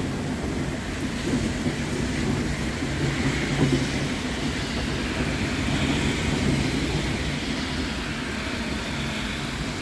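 Steady rain with a continuous low rumble of rolling thunder, no sharp claps.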